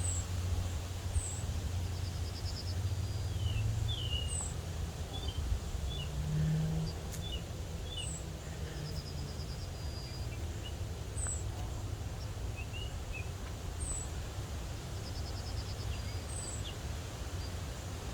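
Several small songbirds calling and singing: short high chirps every second or two, a brief buzzy trill every few seconds, and scattered lower chirps, over a steady low rumble.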